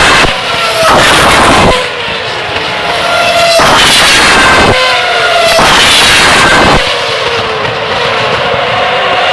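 Formula 1 cars with 2.4-litre V8 engines passing at speed, three loud passes about a second, four seconds and six seconds in, each dropping in pitch as the car goes by, with engine noise carrying on between them.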